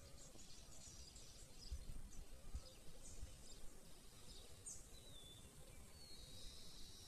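Faint birds chirping and calling, with a high buzzing trill coming in near the end, over a low rumble of wind on the microphone.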